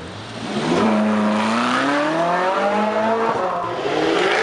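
A sports car's engine accelerating hard through the gears. It comes in loud about half a second in; the pitch climbs, drops at an upshift about two seconds in, then climbs and drops again near the end.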